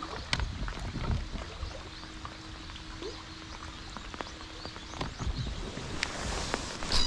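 Light rain falling on the lake surface, an even patter with scattered small ticks and knocks. A faint steady hum runs until about five seconds in, and a brief louder rush of noise comes near the end.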